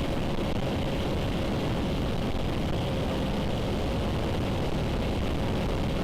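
Motorcycle engine running at a steady cruising speed, heard with wind rushing over a helmet-mounted camera.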